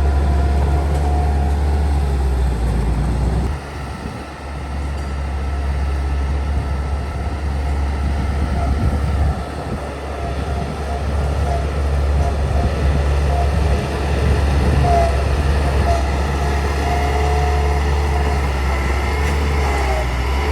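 Bulldozer's diesel engine running under load with a steady deep rumble, easing off briefly about three and a half seconds in before building again.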